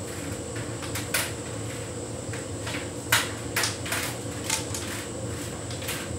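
Hotpoint heat pump tumble dryer running on a synthetics cycle: a steady hum with a few irregular knocks as the drum turns, the loudest a little after three seconds in.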